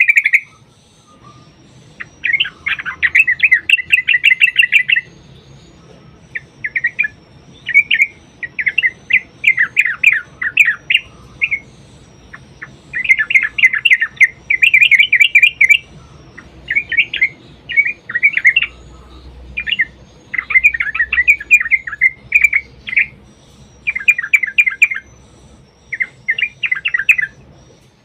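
Yellow-vented bulbul (trucukan) singing its long rapid-fire 'ropel' fighting song: bursts of fast chattering notes, each lasting one to three seconds, with short pauses between.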